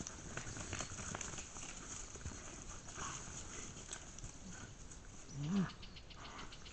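Faint rustling and light ticks of an animal moving, with one short, low call that rises and falls about five and a half seconds in.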